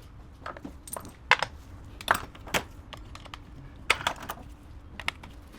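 Scattered light clicks and taps, irregularly spaced, from small tools and metal parts being handled during disassembly.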